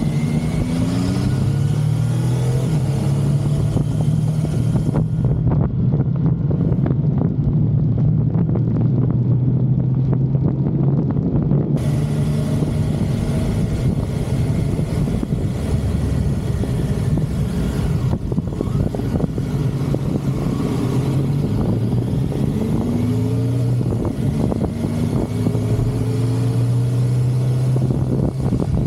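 Motorcycle engine running at road speed with steady wind rush, the engine note rising as it pulls up through the revs near the start and again several times in the last third.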